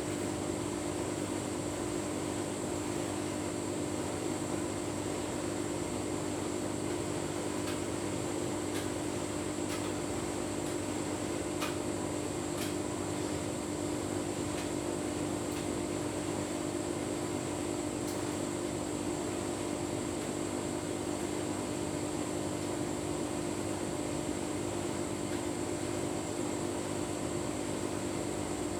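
Tumble dryer running with a full load of bedding: a steady motor and fan hum with a high whine, and a few faint ticks around the middle.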